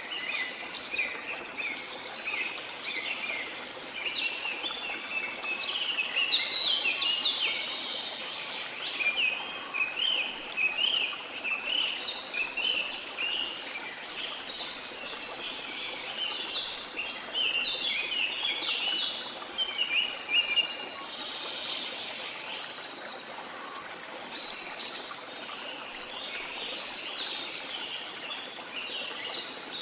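A dense chorus of many birds chirping and singing in quick short notes without pause, over the steady rush of a waterfall.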